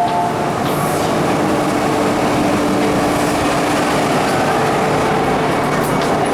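MTR M-Train electric multiple unit running noise: a steady rumble with a faint, steady motor hum in the middle. The two-note door-closing beeps end just at the start.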